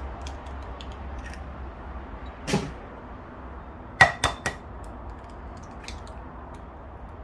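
Kitchen handling sounds against a bowl: a dull knock about two and a half seconds in, then three quick sharp clinks with a short ring about four seconds in, with faint light clicks between, over a low steady hum.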